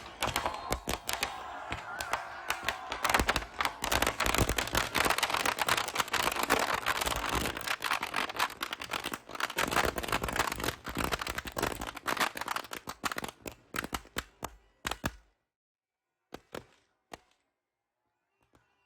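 Firecrackers going off in a rapid, dense string of sharp cracks and bangs. They stop suddenly about fifteen seconds in, leaving a few last scattered pops.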